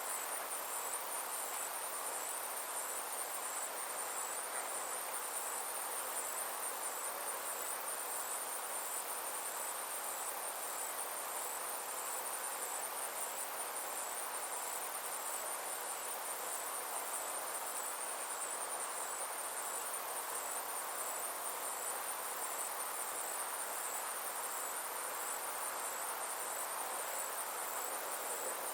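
Summer insects trilling steadily: a high, rapidly pulsing chorus that does not let up, over a steady hiss.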